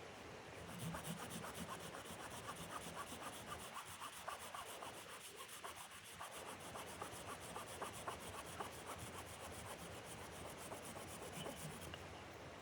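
Rapid, even rasping strokes, several a second, kept up steadily: something being rubbed or scraped back and forth.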